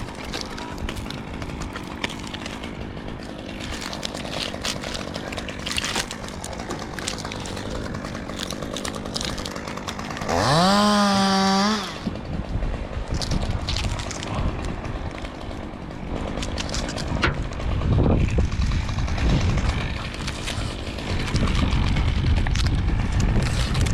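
Chainsaw running, revved sharply up to full throttle about ten seconds in, held loud for a second and a half, then dropped back.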